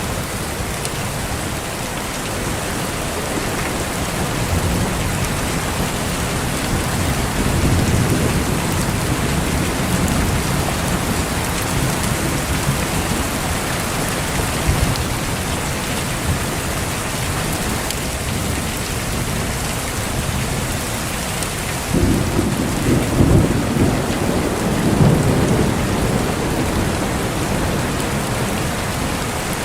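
Steady heavy rain with rolling thunder. Low rumbles come and go through the first half, and about two-thirds of the way through a louder thunderclap breaks in suddenly and rumbles on for several seconds.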